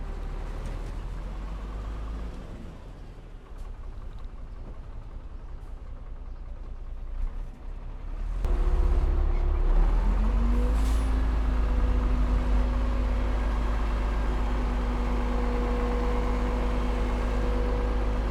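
Heavy diesel engine of earthmoving machinery running low. About eight seconds in it opens up, its pitch climbing and then holding at a steady higher revving speed.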